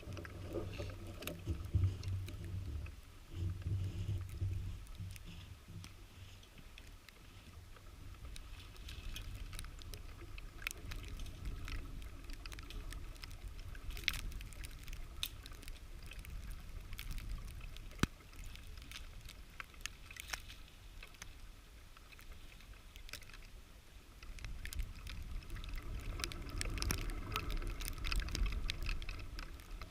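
Footsteps trudging through deep snow, with soft crunches and scattered sharp clicks over a steady low rumble of wind on the microphone.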